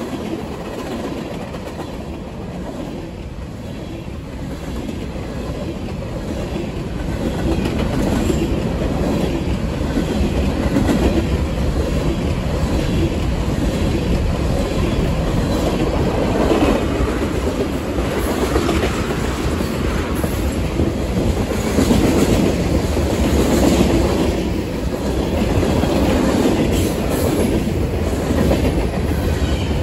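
CSX manifest freight train's covered hopper cars rolling past close by: a steady rumble of steel wheels on rail with rhythmic clickety-clack over the rail joints, growing louder during the first ten seconds or so.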